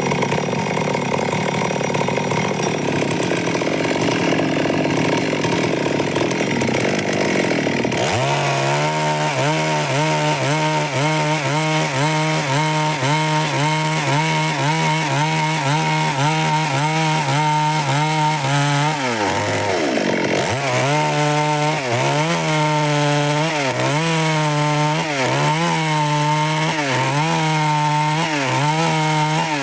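Stihl MS 382 two-stroke chainsaw running at high revs while sawing wood. About two-thirds through, its engine note drops sharply and then climbs back, after which it wavers up and down at a regular pace.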